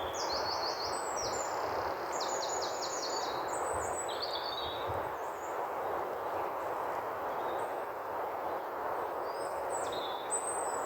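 Small birds singing, with several quick runs of high, falling chirps over a steady background rush of noise.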